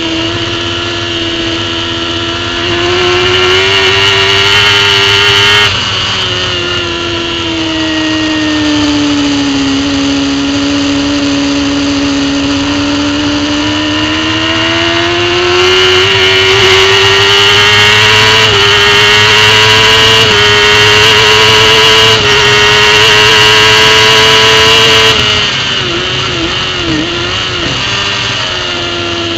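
Racing superbike engine at high revs under the on-board camera, its pitch sagging and climbing through corners and held high on a straight. Near the end the revs drop away with a few quick blips, as the throttle closes for braking and downshifts.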